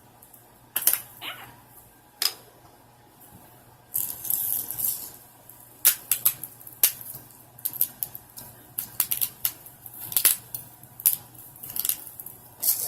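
Salt packets being torn open and shaken over a carton of fries: a run of sharp, irregular paper crinkles and rustles, with a longer rustle about four seconds in.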